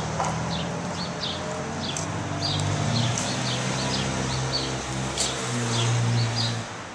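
Small birds chirping repeatedly, a few short high chirps a second, over the steady low hum of street traffic.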